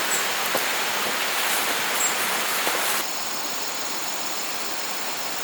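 Steady rushing noise of water, rain or running water, with faint small ticks in it; about three seconds in it changes abruptly to a duller, even hiss.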